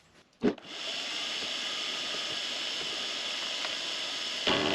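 Vevor MX400 mini lathe switched on with a click, then its motor and spindle running steadily. Near the end the sound steps up louder, with a strong high hiss, as the tool starts a light finishing cut into aluminium.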